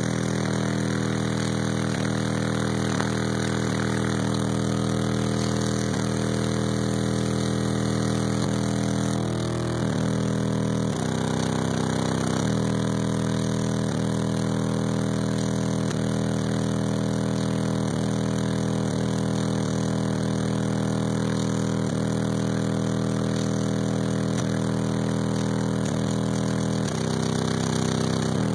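Car-audio system of six AA SMD 18-inch subwoofers playing a steady, loud low bass drone, heard from inside the truck. The pitch shifts twice, about ten seconds in and near the end.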